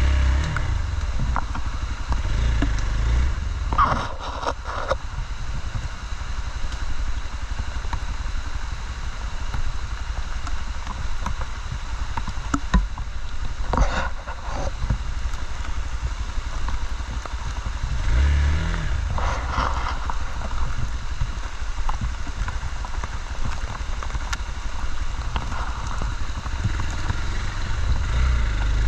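Off-road motorcycle engine running on a trail, the throttle opening and closing so the engine note swells several times, with a few brief knocks along the way.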